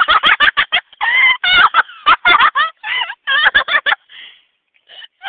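Gulls calling over one another: quick runs of short, sharp calls mixed with longer wavering calls, with a brief lull about four seconds in.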